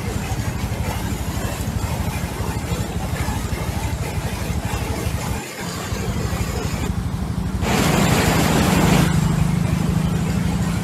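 Heavy rain pouring down onto flooded ground, a loud, dense steady hiss with a low rumble underneath. It briefly dips about five and a half seconds in, and grows louder for a moment about eight seconds in.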